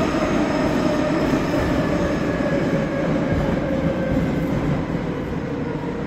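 81-717.5M/81-714.5M metro train running through the tunnel with a loud, steady rumble and a whine that sinks slowly in pitch as it slows on the approach to a station.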